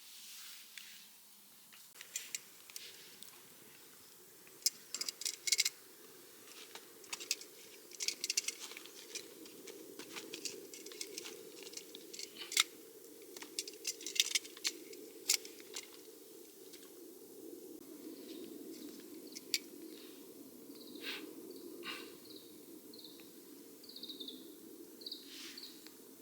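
Wood fire crackling and popping in a Firebox stove, with sharp irregular pops thickest in the first two-thirds. Near the end a bird calls in a run of short, evenly spaced notes.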